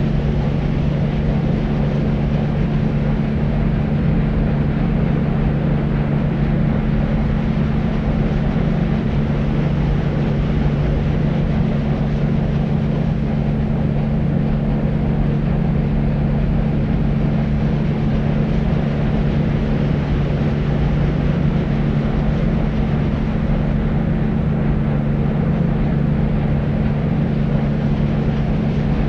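Deep white noise for sleep: a steady, unchanging low rushing hiss, heavy in the bass and dull at the top, with a low hum running through it.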